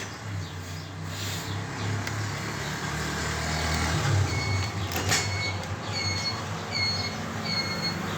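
A vehicle engine running steadily, with a short electronic beep repeating about every 0.7 s from about halfway through, and a single sharp knock about 5 seconds in.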